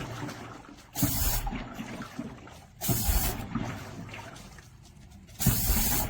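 Water heater being flushed with a Sediment Buster drain tool: three sudden spurts of water and air gushing and sputtering through the drain, about a second in, near the middle and near the end, each fading into a lower trickling flow as the sediment is broken loose.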